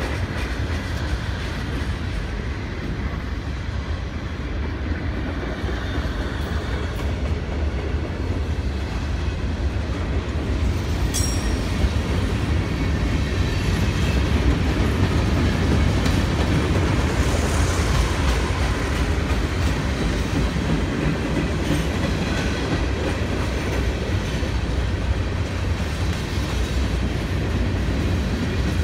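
Norfolk Southern freight train cars rolling past on the track in a steady rumble, with the wheels clicking over the rail joints and one sharp click about eleven seconds in.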